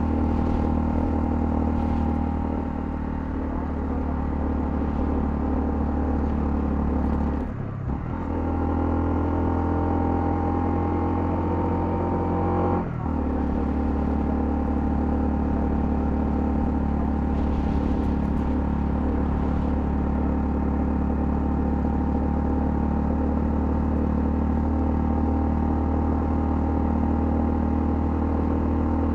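Honda CL250 motorcycle engine running steadily under way. The engine note breaks off briefly twice, about 8 and 13 seconds in, the second time after the pitch climbs, as at gear changes.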